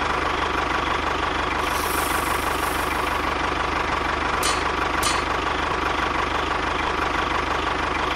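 Tractor engine idling steadily with an even chugging pulse, with two light clicks about halfway through.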